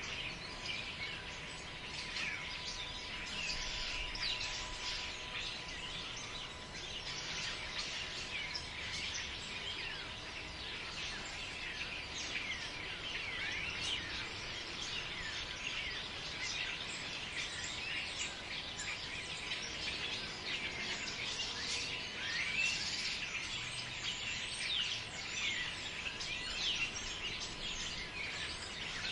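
A dense chorus of many birds chirping and trilling in a forest, continuous and overlapping, over a faint low background rush.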